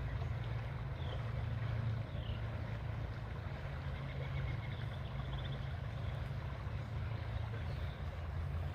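A steady low rumble, with a few faint, short, high bird chirps falling in pitch in the first couple of seconds and a brief bird trill about four and a half seconds in.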